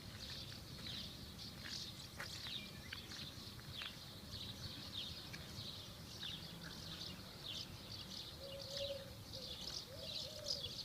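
Many small birds twittering and chirping continuously, a busy chatter of short, high calls. Near the end a faint, drawn-out low sound comes from further off.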